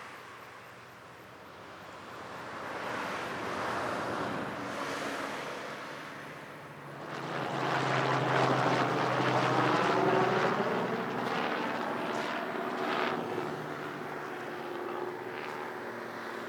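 Small single-cylinder four-stroke motorcycle engine running under way, with wind rush over it; it grows louder about seven seconds in and stays loud.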